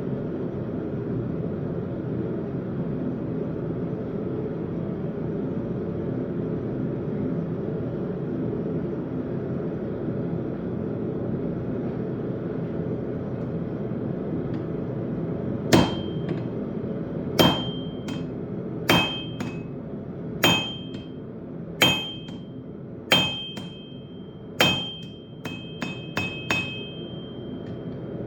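A steady low rumble for the first half, then a blacksmith's hammer striking hot steel on an anvil: about seven heavy blows roughly a second and a half apart, each leaving a high ring from the anvil, followed by a few lighter, quicker taps near the end.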